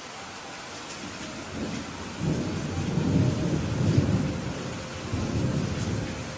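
Steady rainfall with a low rumble of thunder that swells about a second and a half in, peaks in the middle and rolls away near the end.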